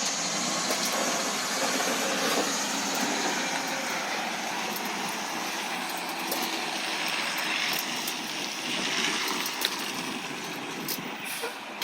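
Recycling truck running, a steady engine and vehicle noise, with a few light clicks near the end.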